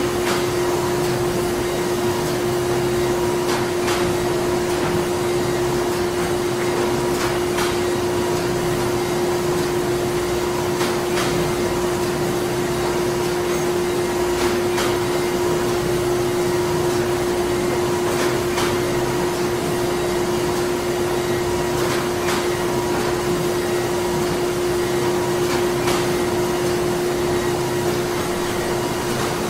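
Printing-plant machinery running steadily: an even mechanical hum with a constant low tone and a fainter higher one. Faint clicks recur about every three to four seconds.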